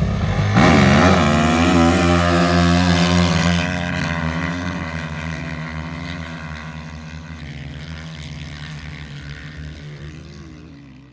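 A 450 dirt bike's engine revs up about half a second in, then holds a steady note that fades gradually until it has almost died away near the end.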